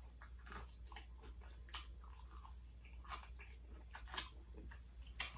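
Faint chewing of a bite of Southern fried chicken, with a few soft crunches and mouth clicks scattered through it.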